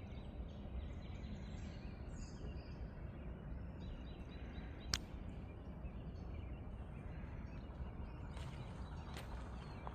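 Forest ambience: faint, scattered bird calls over a steady low rumble, with a sharp click about halfway through and a softer one near the end.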